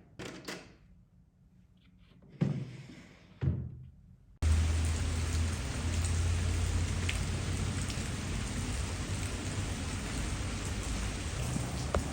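A few soft knocks, then about four seconds in a steady rain starts abruptly and keeps falling.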